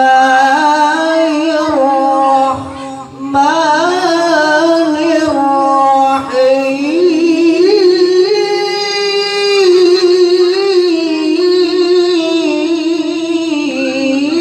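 A Quran reciter's voice chanting in the melodic tilawah style: long held notes with ornamented, wavering turns, in phrases broken by brief breaths. The line climbs higher about halfway through and falls back about two-thirds of the way in.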